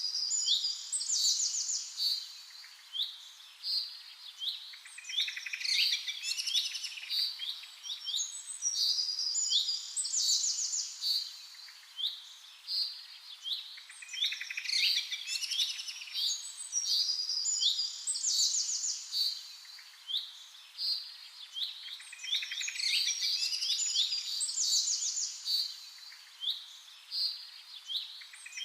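Birdsong: several small birds chirping, with quick trills and short rising and falling whistles, in a pattern that seems to repeat about every nine seconds.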